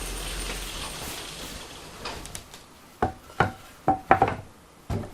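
A few sharp knocks and clinks, five or six in about two seconds, some with a short ringing tone, after a faint hiss.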